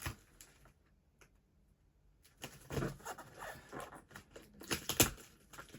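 A parcel's packaging being worked open with pliers: rustling, tearing scrapes and clicks that start about two seconds in, with one sharp snap near the end.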